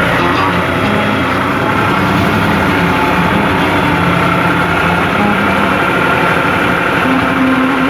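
New Holland 55-56 tractor's diesel engine running steadily under load, pulling a three-furrow plough.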